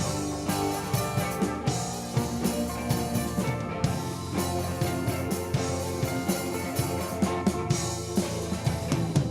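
Rock band playing a song on electric guitar and drum kit, with no keyboard, at a steady beat.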